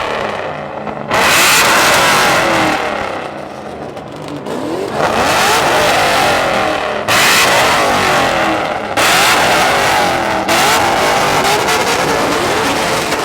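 Loud V8 muscle-car engines revving hard again and again, the pitch climbing and dropping with each blip of the throttle, the sound jumping up suddenly several times.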